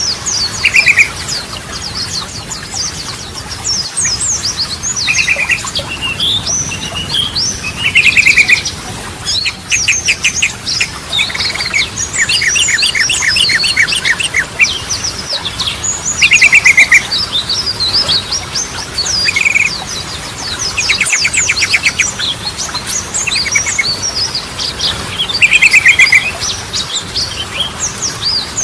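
Yellow-vented bulbul singing continuously in quick bubbling, chattering phrases, broken up by fast rattling trills every few seconds.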